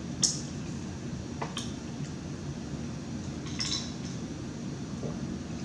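Cutlery clinking against a dish three times, the last clink ringing briefly, over a steady low hum.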